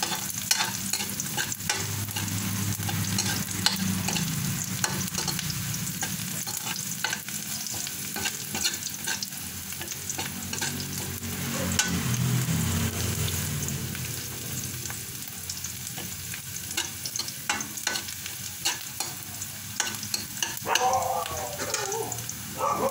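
Diced onion and garlic sizzling in oil in a steel wok, with a metal utensil scraping and clicking against the pan as it stirs.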